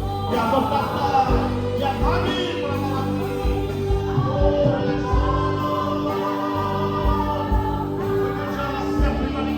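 Christian worship song: voices singing over instrumental accompaniment with a steady low beat.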